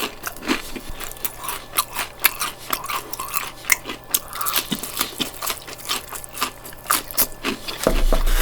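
Close-miked biting and chewing of crispy fried chicken breast: crunching of the fried crust with wet mouth sounds, in quick irregular crackles.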